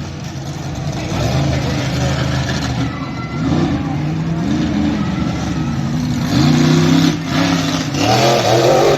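Monster truck engine revving hard in repeated surges, its pitch climbing and dropping several times, loudest in the last couple of seconds.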